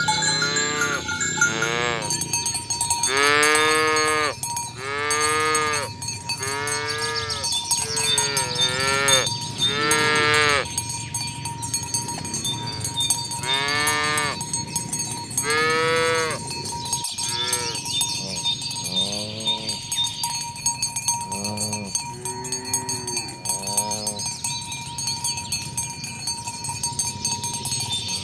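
Herd of cattle mooing, one call after another, each call rising and falling in pitch. The calls come thick and loud over the first half, then fainter and more spread out.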